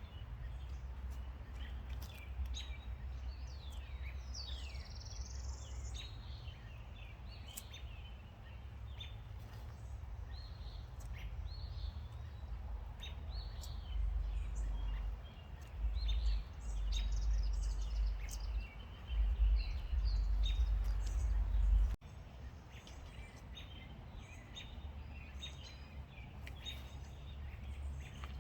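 Wild birds chirping and calling in many short notes and quick whistled glides, over a low rumble that swells louder past the middle and cuts off suddenly about three quarters through.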